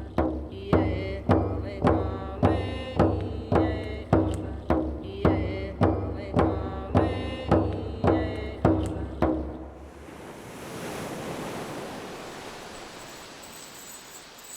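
A drum beaten steadily, a little under two strikes a second, with chanting voices over it. The drumming stops about ten seconds in, leaving a steady rushing like surf.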